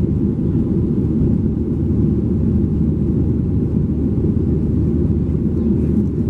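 Steady low rumble of a Boeing 737-700's CFM56-7B jet engines and airflow heard from inside the passenger cabin, with no change in level.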